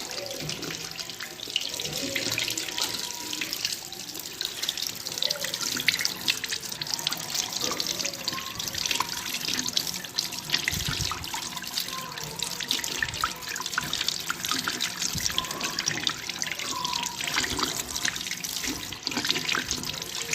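Tap water running and splashing steadily while a washing machine's inlet filter screen is rinsed clean of trapped dirt and dust.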